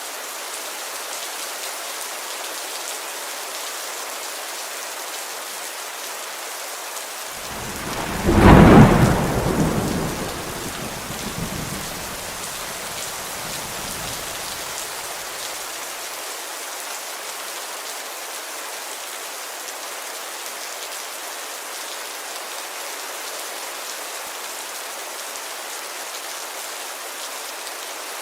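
Steady rain, with a sudden clap of thunder about eight seconds in that rumbles away over the next several seconds.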